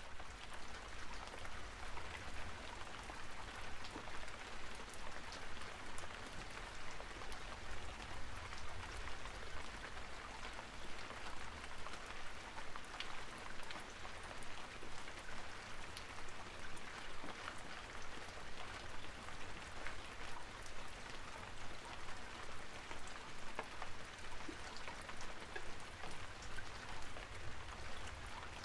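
Steady rain-like patter, with many fine ticks over a low rumble.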